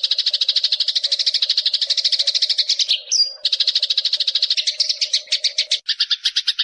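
Eurasian tree sparrow chattering: a fast, even run of rapid chirps, broken about three seconds in by one short higher note, then resuming. Near the end a second, lower series of chirps joins in.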